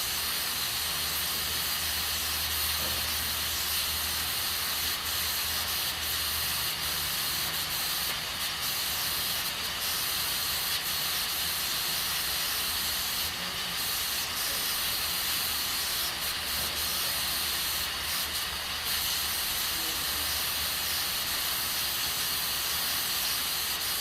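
Aluminium pressure cooker on a gas stove venting steam in a steady hiss, the pressure valve letting off pressure as beans cook under pressure.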